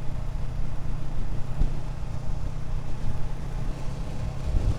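Motorcycle engine running steadily while riding, heard as a steady low rumble.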